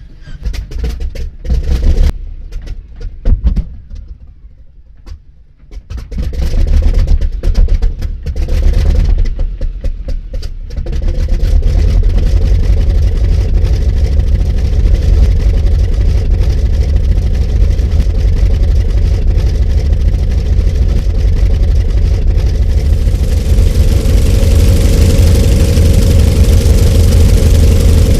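Antonov An-2's nine-cylinder radial engine starting: irregular coughs and bangs with short gaps for the first ten seconds or so as it catches, then it settles into a steady run. About 23 seconds in it grows louder, with a rushing sound added as the revs come up.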